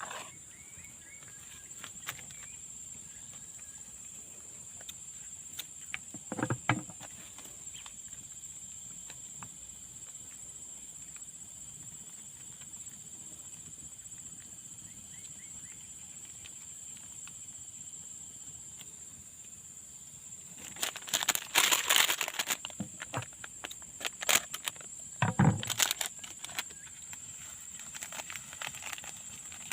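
Outdoor garden ambience: a steady high-pitched hum with a few faint bird chirps early on. Dense rustling and crackling comes in twice in the last third, the loudest sounds here.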